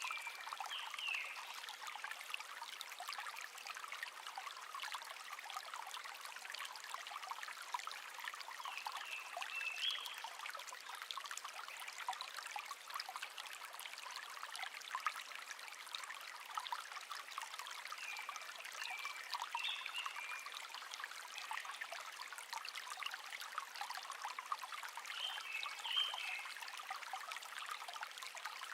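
Shallow stream babbling and trickling steadily, with a bird singing short chirping phrases four times over it.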